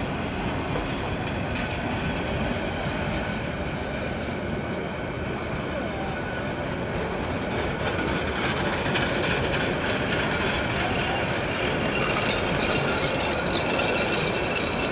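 Bangladesh Railway intercity passenger coaches rolling past on the track: a steady rumble of wheels on the rails, a little louder from about halfway.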